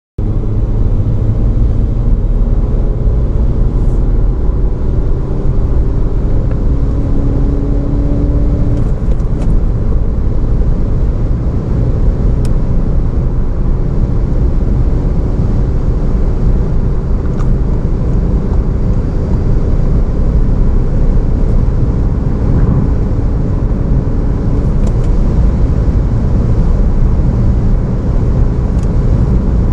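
Volkswagen Golf 2.0 TDI four-cylinder diesel accelerating hard: a loud, steady low rumble of engine and road noise, with faint engine tones slowly gliding in pitch.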